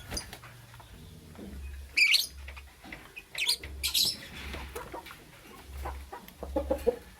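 Lovebird giving a few short, shrill chirps, about two seconds in and again twice near the middle, with softer clicks and scrapes between the calls.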